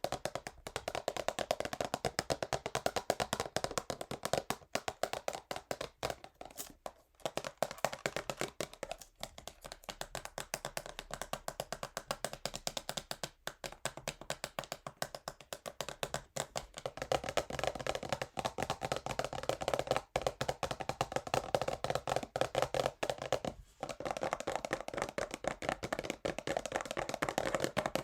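Fingernails tapping fast and hard on a cardboard perfume box, many quick clicks a second with brief pauses. The tapping grows fuller in the last third.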